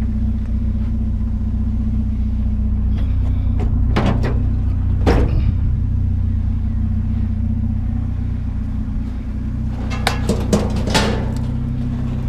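Vehicle engine idling steadily, with a few sharp clunks and knocks about four and five seconds in and again in a quick cluster near the end.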